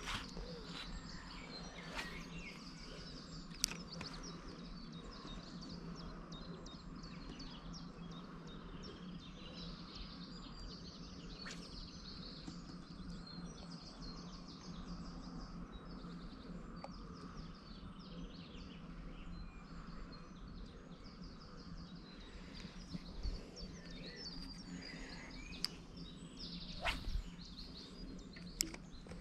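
Birds chirping over a steady low hum, with a few sharp clicks, most of them near the end.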